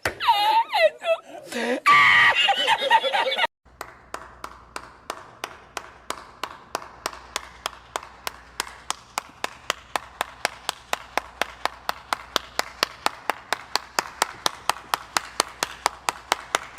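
Short comic sound-effect clips: about three seconds of squeaky, gliding pitched sounds, then a brief silence and a long, steady run of sharp, evenly spaced clicks, about four a second.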